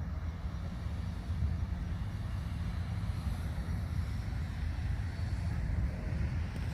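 A steady, deep rumbling noise with no distinct events.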